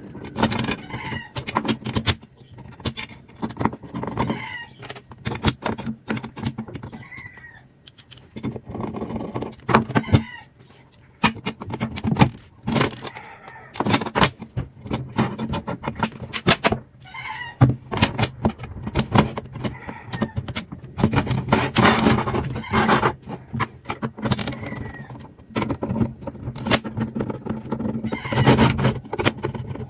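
Irregular clattering, knocking and scraping of tools and parts being handled and worked at a workbench, with a few short squeaks among them.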